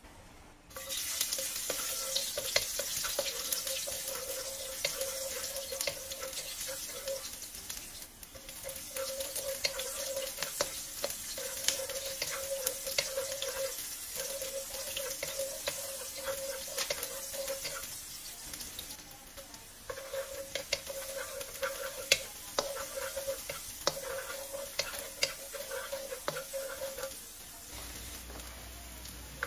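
Onion, garlic and ginger sizzling in hot oil in a nonstick wok. The sizzle starts about a second in. A wooden spatula stirs them, knocking and scraping against the pan many times. Near the end the stirring stops and the sizzle goes on a little quieter.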